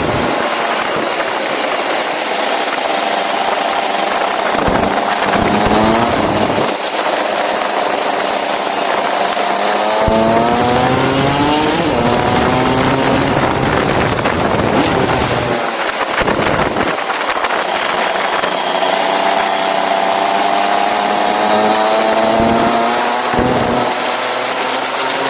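Go-kart engine running hard, its pitch climbing in long pulls and dropping off sharply several times as the kart accelerates and slows, over a steady hiss.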